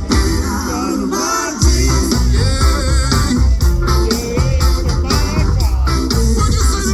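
Live pop band playing with singing, over a steady bass and drum beat.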